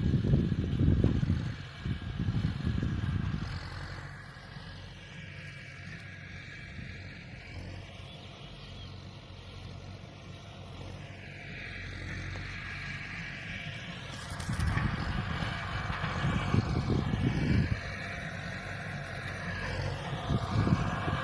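Large farm tractor's diesel engine running steadily while plowing, with louder rough low rumbling at the start and again from about fifteen seconds in.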